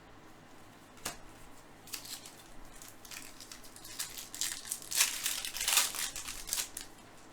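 Crinkling and rustling of a foil trading-card pack wrapper and baseball cards being handled, with a sharp click about a second in and the loudest crinkling in the second half.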